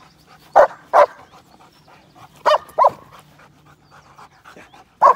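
Young German Shepherd barking on guard, two quick barks at a time, repeated about every two seconds.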